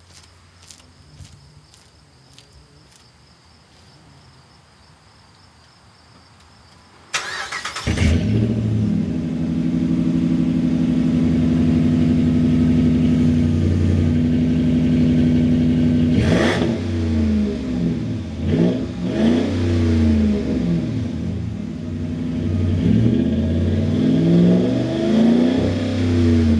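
2008 Dodge Ram 1500's 5.7-litre Hemi V8 through an aftermarket Proflow chambered dual exhaust: cranked and started about seven seconds in, then idling loudly with a deep note and revved several times, the pitch rising and falling. Before the start, crickets chirp faintly.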